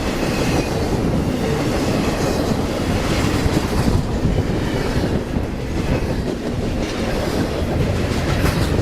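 A train's cars rolling past on the track, their steel wheels running steadily over the rails.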